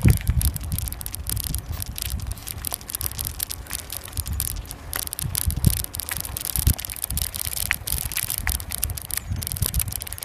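Riding a bicycle: wind rumbling on the microphone, with a constant patter of rattles and clicks.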